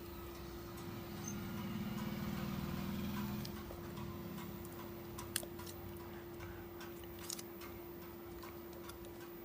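Scattered light clicks and taps of small repair tools handling a phone, over a steady electrical hum, with a low rushing swell from about one to three and a half seconds in.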